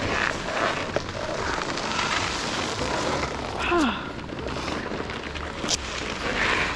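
Snowboard sliding and scraping over snow, a steady rushing noise with wind on the microphone and a few brief scrapes.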